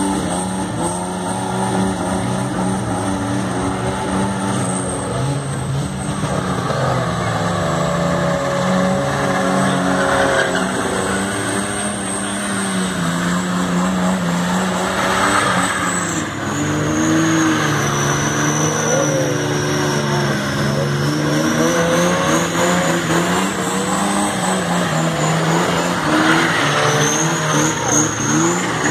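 Twin-turbo Chevrolet Caravan engine held at high revs in a burnout, the revs rising and falling as the rear tyres spin and squeal. A thin high whistle wanders in pitch throughout.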